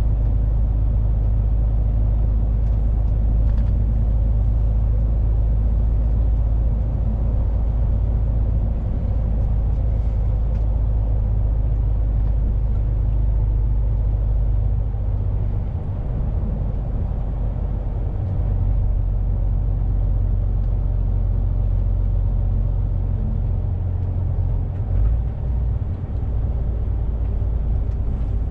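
Truck's engine and tyres heard from inside the cab while driving: a steady low drone with road rumble, easing slightly a couple of times.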